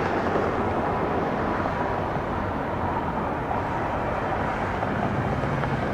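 Steady rushing noise of jet aircraft engines around an airport runway, with no sudden changes.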